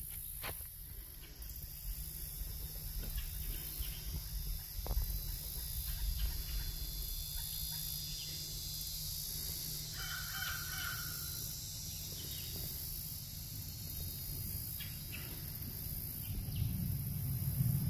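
A bird calling, a crow-like caw lasting about a second, about ten seconds in, over a steady high hiss and a low rumble.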